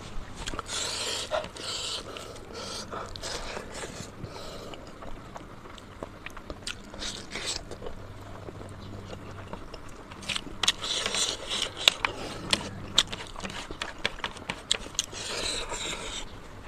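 Close-up eating sounds of someone chewing and biting on cooked pork leg and pork nose, with many short sharp clicks scattered through.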